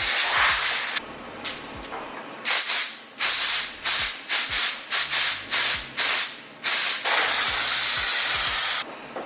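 Compressed air hissing out of a blow nozzle, blowing dirt out of a boat's crevices: a long blast that cuts off about a second in, then a rapid string of short bursts, then another steady blast of about two seconds near the end.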